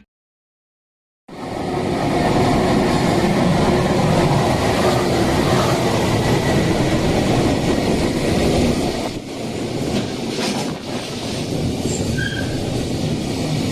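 A train running past on the rails: a loud, steady rumble of wheels and rail noise that cuts in suddenly about a second in and eases slightly in the last few seconds.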